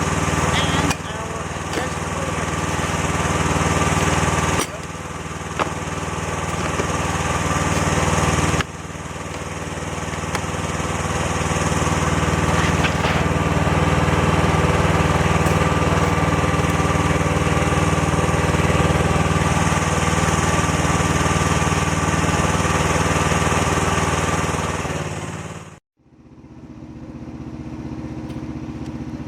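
A small engine running steadily. The level jumps abruptly three times in the first nine seconds. Near the end it cuts off sharply, and a quieter engine sound follows.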